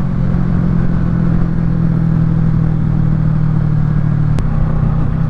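2022 Kawasaki Ninja 650's parallel-twin engine through a Yoshimura Alpha full exhaust, running steadily while riding. About four seconds in there is a sharp click and the engine note shifts slightly.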